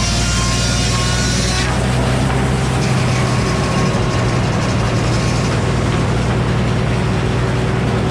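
Old Frick sawmill running steadily, its engine-driven circular head saw turning while poplar is sawn into boards. The sound changes suddenly a little under two seconds in, losing its hiss.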